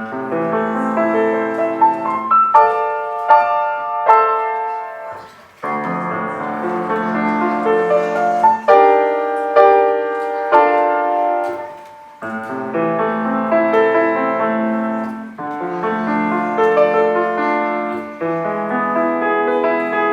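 Piano playing a loud passage of dense chords and running notes, with brief breaks about six and twelve seconds in.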